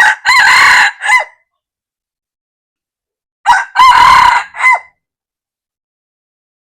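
Red junglefowl cock crowing twice, about three seconds apart: each crow is a short opening note, a long middle and a short clipped end note.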